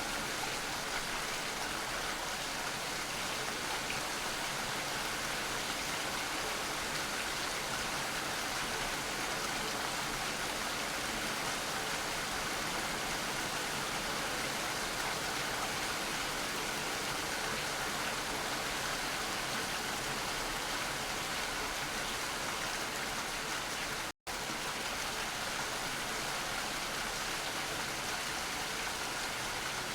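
Steady rain falling, an even hiss of many drops with no distinct single events. The sound cuts out completely for a split second about four-fifths of the way through, then resumes unchanged.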